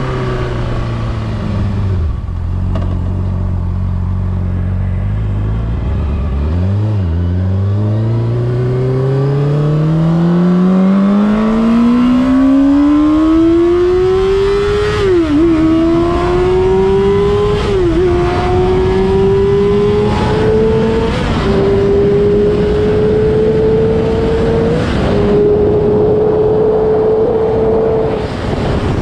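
Honda CBR600RR's inline-four engine dropping to low revs, blipping once, then accelerating hard with steadily rising revs. Four upshifts follow, each a quick dip in pitch before the revs climb again. It eases off near the end.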